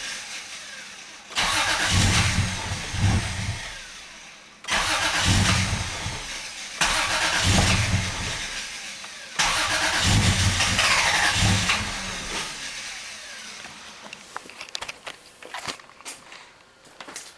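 Car engine cranking on the starter without catching, three attempts that each start suddenly and fade out: it will not start with the air flow meter disconnected. Faint clicks near the end.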